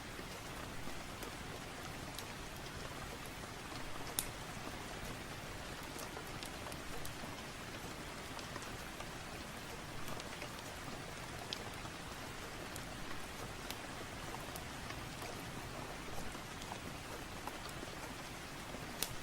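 Steady rain hiss, with a few sharp crackles and pops from a wood fireplace, the loudest about four seconds in and just before the end.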